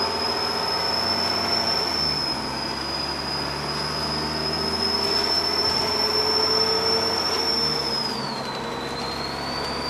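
Turbocharger whistle of a Dennis Trident double-decker bus: a steady high whine over the diesel engine running, dipping briefly about eight seconds in and then rising again. The low engine note changes twice, at about two seconds and about eight seconds.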